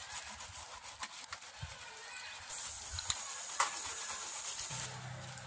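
Scrubbing of grimy washing-machine tub parts during cleaning: rubbing noise with scattered light knocks and clicks, and a hiss in the middle. A low steady hum comes in near the end.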